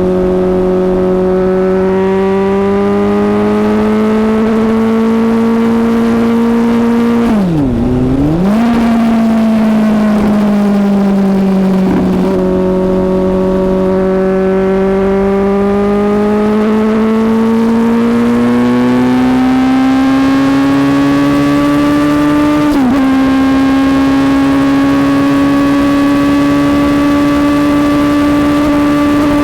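Suzuki GSX-S750's inline-four engine running hard at road speed, its note holding steady. The pitch drops sharply and comes back about eight seconds in, then climbs slowly through the second half, with a short dip a little past two-thirds of the way through.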